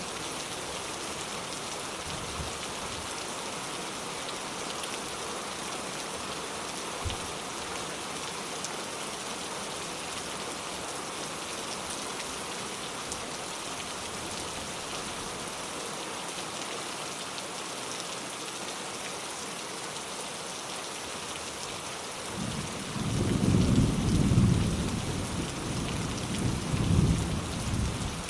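Steady rain falling. A low roll of thunder rumbles in about three-quarters of the way through, swelling twice before easing off.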